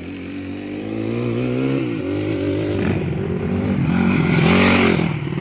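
Dirt bike engine revving on the motocross track, its pitch rising and falling with the throttle as it gets louder, loudest just before the end.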